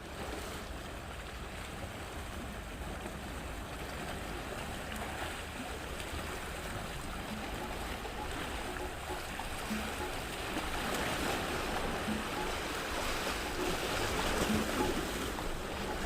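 Sea waves washing onto the shore, a steady rush that swells louder in the second half.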